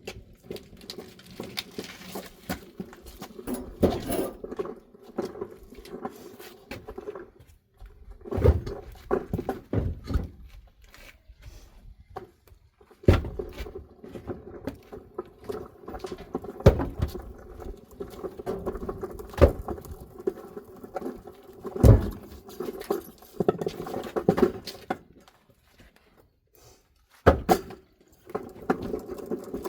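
Split firewood logs knocking and thudding as they are handled and stacked, in irregular wooden knocks with a few heavier thuds, over a steady mechanical hum.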